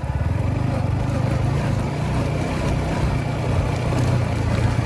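Yamaha MT-15's single-cylinder engine opens up right at the start and then runs at a steady pitch.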